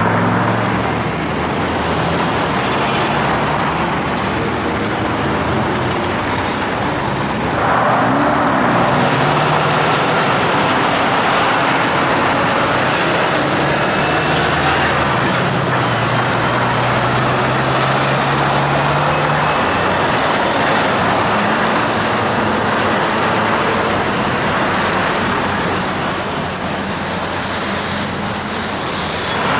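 Semi-trucks and other highway traffic passing: steady tyre and engine noise, with a louder pass starting about seven and a half seconds in.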